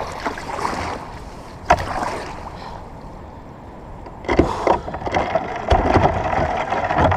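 Sea kayak being paddled: water splashing and sloshing from the paddle strokes and against the hull, with a sharp knock about a second and a half in. The water noise gets louder from about four seconds in.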